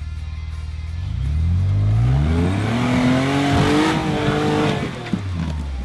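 Off-road Jeep's engine revving up over about two seconds, held at high revs, then dropping back near the end.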